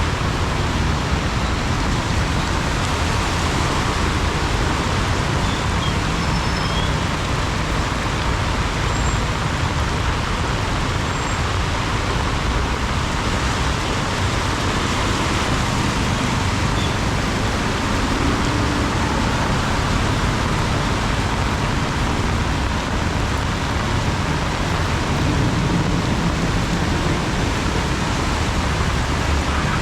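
Heavy rain pouring steadily, a dense, even hiss that holds at the same level throughout.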